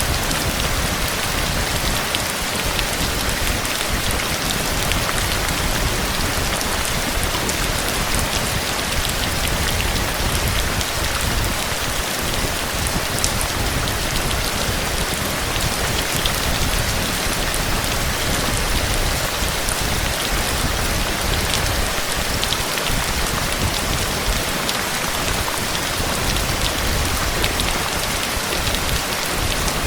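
Steady heavy rain, a dense even hiss of drops hitting a surface with many fine individual drop ticks.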